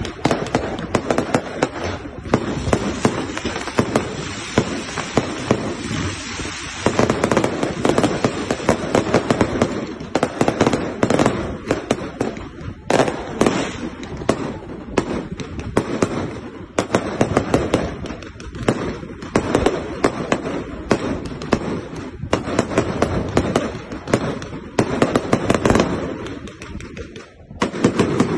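Fireworks display: a dense, unbroken run of bangs and crackling bursts, easing briefly near the end before picking up again.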